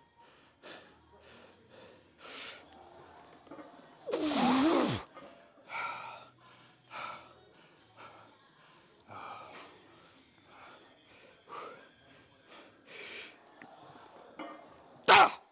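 A man breathing hard in short, forceful puffs of breath during heavy leg training, with a loud strained grunt that falls in pitch about four seconds in. A short, sharp, loud sound comes near the end.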